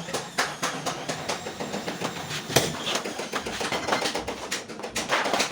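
Rapid hammer taps, several a second, with one harder strike about two and a half seconds in.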